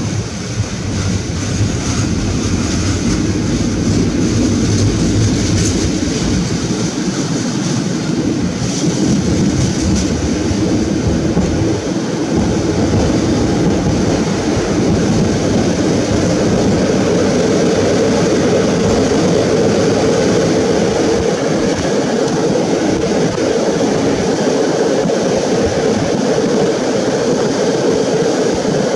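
Passenger train carriage running along the track, with a steady rumble of wheels on the rails. A steady hum comes in about halfway through.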